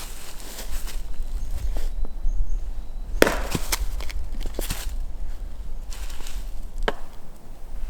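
Wood being chopped or split with a blade: a few sharp wooden knocks at uneven intervals, the loudest about three seconds in, over a steady low rumble.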